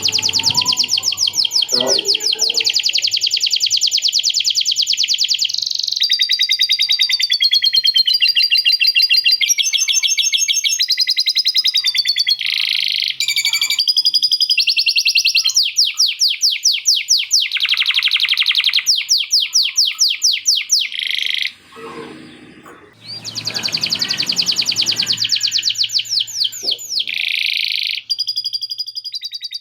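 Male canary singing a long song of fast rolling trills, switching from one rapid phrase to the next, in a style trained on lovebird chattering. There is a brief break about two-thirds of the way through.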